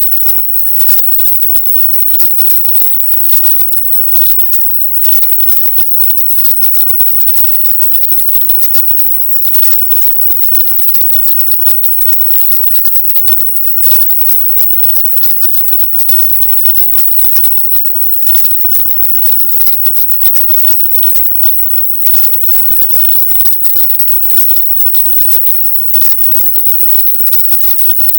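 Loud, steady hiss with a crackly, scratchy texture, brightest high in the treble and broken by brief split-second dropouts: a 'silent subliminal' audio track.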